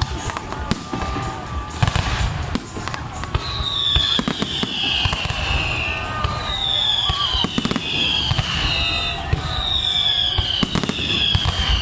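Fireworks display: a dense run of sharp bangs and pops. From about three seconds in come six high whistles, each falling in pitch over about a second.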